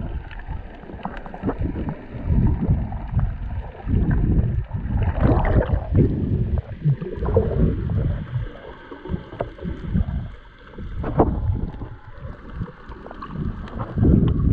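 Water sloshing and slapping around a small boat, with irregular knocks and splashes and wind buffeting the microphone.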